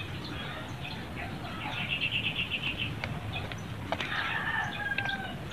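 A small bird chirping: a quick trill of about ten high notes about two seconds in, and a thinner drawn-out call near the end. A faint click comes about four seconds in.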